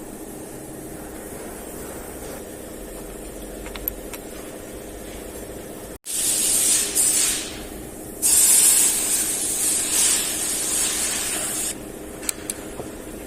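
Two long, loud hissing sprays from a pressurized nozzle, the first about two seconds and the second about three and a half, over a steady low shop hum. A few light clicks follow.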